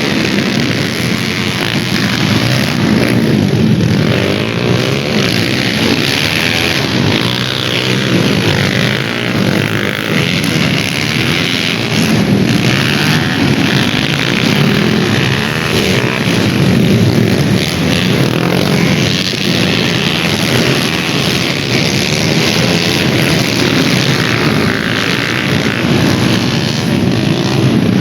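Dirt bike motorcycle engines racing on a dirt track, running loud and continuously, their pitch rising and falling as the riders rev and shift.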